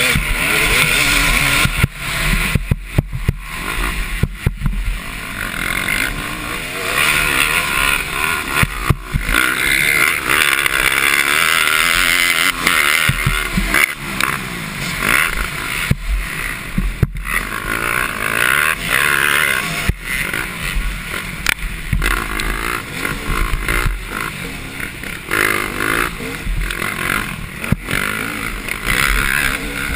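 Several motocross bikes racing, their engines revving up and down as they pass.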